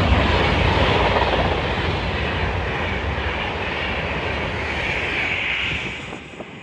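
Class 390 Pendolino electric train passing through the station at speed without stopping: a loud rush of wheel and air noise with a deep rumble, which fades sharply about six seconds in.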